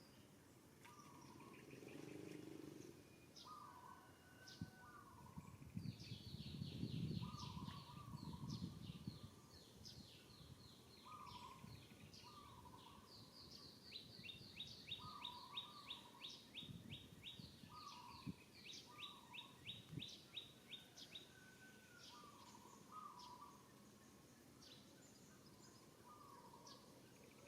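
Faint birds calling: a low two-note call repeated every second or two, and runs of fast high trills. A low rumbling noise swells briefly about a quarter of the way in.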